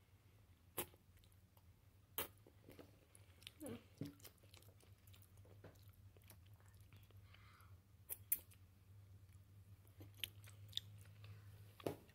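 A person chewing food close to the microphone: quiet, irregular wet mouth clicks and smacks, a few of them sharper, spaced a second or more apart.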